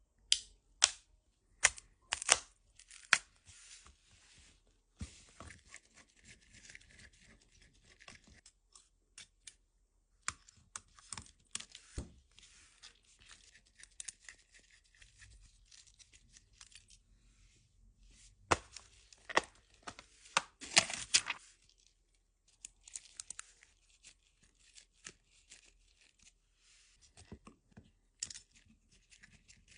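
Small repair tools clicking and scraping against an iPhone 11 as its display is worked on, with stretches of hissy scraping between sharp clicks. The loudest clicks come in the first few seconds and again about two-thirds of the way through.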